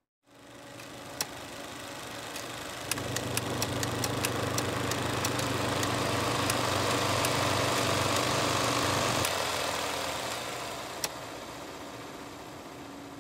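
A car engine running, with a steady low note and a string of sharp clicks; the low note cuts off about nine seconds in, and the remaining noise fades away.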